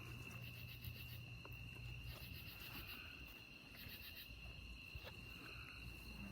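Faint, steady high-pitched trilling of night insects such as crickets, with a few faint clicks.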